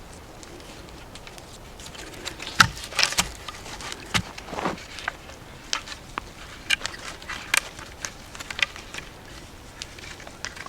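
Wooden poles being handled and set up: irregular knocks, clicks and short rustles of sticks, the loudest knock about two and a half seconds in, dying away near the end.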